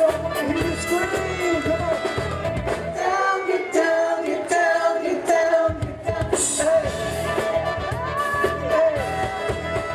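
Live band playing a disco song with singing. In the middle the bass and drums drop out for a couple of seconds, leaving voices and upper instruments, then the full band comes back in.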